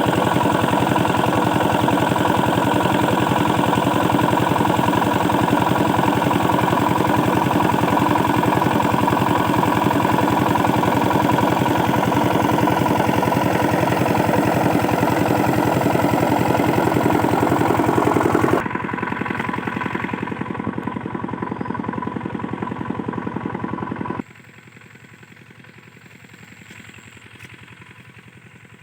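Single-cylinder Usha 5 hp diesel engine running steadily while driving an irrigation water pump. About two-thirds of the way through, the sound drops abruptly, and it drops again near the end to a much fainter running.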